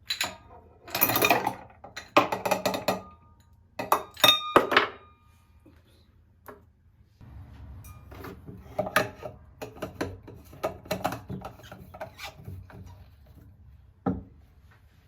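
Objects being handled and set down on a hard surface: a run of knocks, rubs and clatter in separate bursts, with a short ringing clink about four seconds in.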